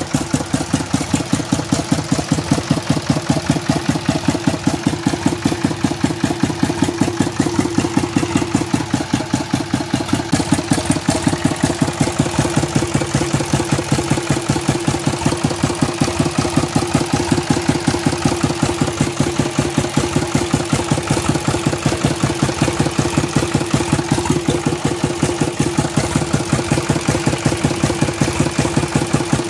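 Old three-cylinder diesel tractor engine running steadily at idle with even, regular firing pulses, run bare without its fuel tank and radiator fitted.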